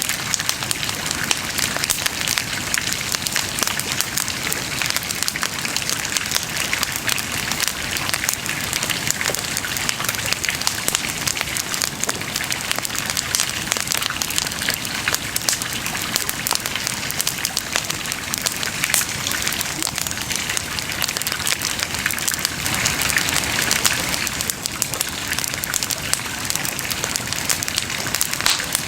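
Wood bonfire crackling: a dense, steady crackle of many small pops over a soft hiss.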